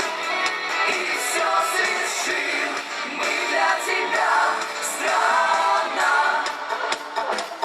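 A vocal-instrumental band plays a pop song live, with singing carried over the band. The sound is thin, with almost no bass.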